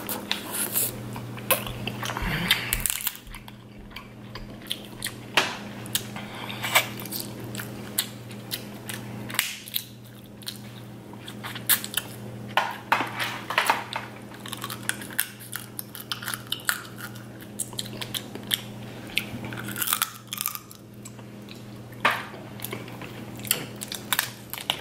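Close-miked chewing of snow crab meat, with many short sharp clicks and crackles, over a faint steady low hum.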